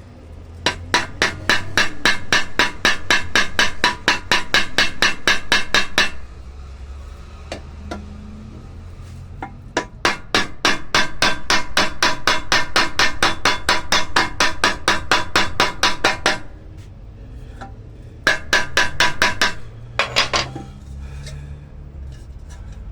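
Hammer tapping fast on a rivet in the loose handle of a pressure cooker, peening it over to tighten the handle. The tapping comes in three runs of about five metallic, ringing blows a second, with short pauses between them.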